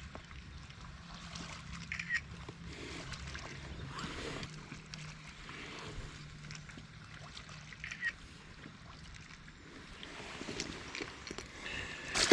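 Faint water sloshing and lapping around a kayak, with two short high chirps, one about two seconds in and one around eight seconds.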